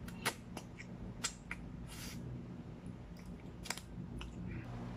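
Close-miked eating of spaghetti: wet chewing and mouth smacks, heard as a string of sharp clicks with a short slurp about two seconds in, over a steady low hum.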